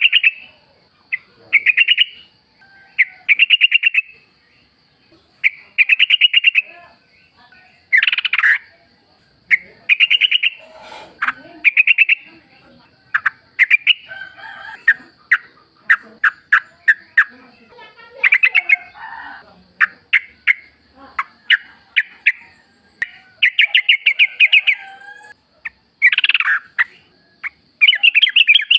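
Yellow-vented bulbul (trucukan) calling: short bubbling phrases of rapid chattering notes, one every second or two, over a faint steady high-pitched hum.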